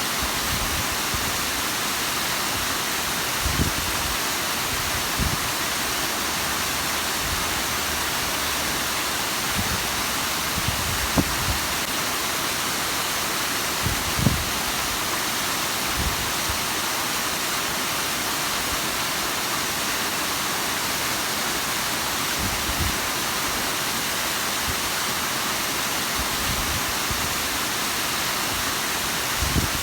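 Bigăr waterfall's water pouring down in a steady, even rush, with a few brief low thumps here and there.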